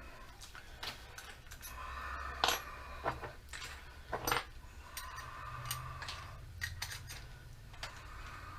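Irregular small metallic clicks and clinks of drill bits and the drill chuck being handled while a pilot bit is swapped for a 3/8-inch spade bit, the sharpest about two and a half and four seconds in, over a low steady hum.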